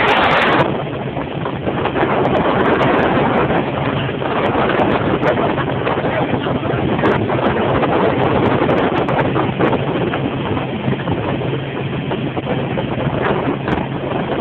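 Motorboat under way: a steady engine hum beneath the rush of wind and water on the microphone, with a louder gust at the start.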